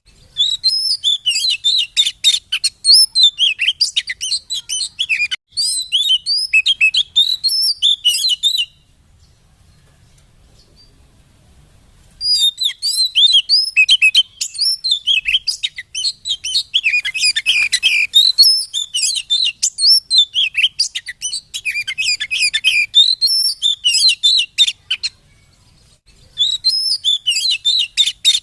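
Oriental magpie-robin (kacer) song: fast runs of varied chirps and whistled notes in long bursts, stopping twice, briefly near the end and for about three seconds in the middle.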